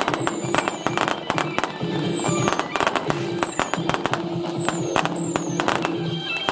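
Fireworks going off in quick succession, with sharp bangs and crackling throughout, and music playing along with them.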